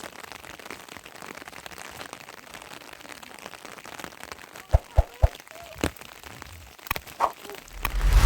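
Steady rain hiss. About halfway through come a few sharp knocks in quick succession, and a low rumble swells near the end.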